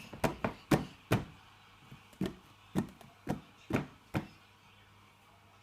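A child making a funny noise: a string of about nine sharp clicks or pops, irregularly spaced, over roughly four seconds.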